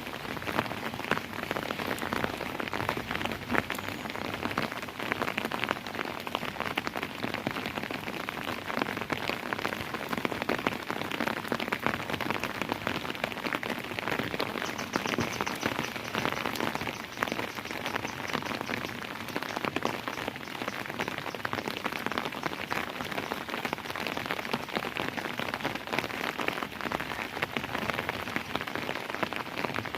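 Steady rain falling on a hard surface, a constant hiss crowded with the sharp taps of individual drops landing close by.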